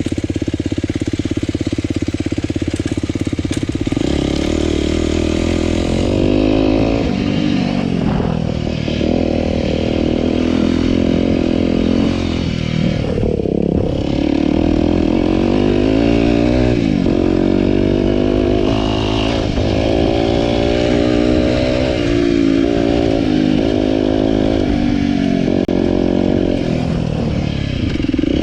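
Single-cylinder four-stroke trail motorcycle engine with an aftermarket slip-on silencer, holding a steady note for the first few seconds, then rising and falling in pitch again and again as the throttle is opened and closed while riding.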